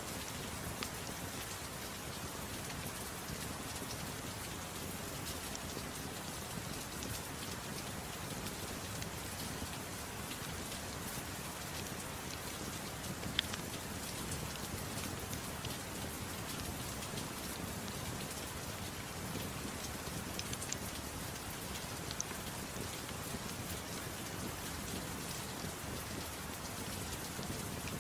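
Steady gentle rain falling, with a few sharp pops from a crackling wood fire, the loudest about halfway through.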